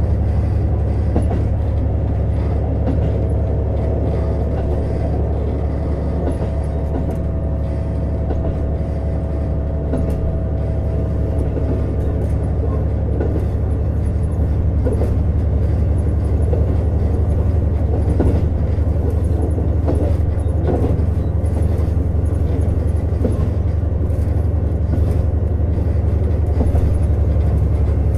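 Running sound of a JR Hokkaido KiHa 150 diesel railcar heard inside the passenger cabin: the diesel engine's steady low drone with wheel and rail noise and occasional clicks. A steady whine runs under it until about halfway through.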